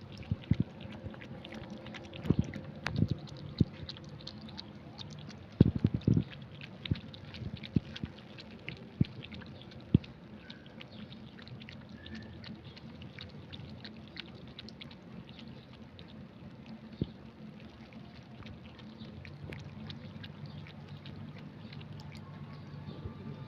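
Cat lapping liquid: a steady run of small wet clicks, with a few louder knocks in the first few seconds.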